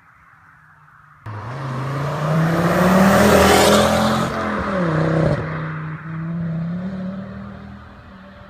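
Ford Focus ST225's turbocharged five-cylinder engine with a decat exhaust, accelerating hard past. It comes in suddenly about a second in, is loudest around three to four seconds, drops briefly in pitch around five seconds, then runs on at a steadier pitch, fading as it pulls away.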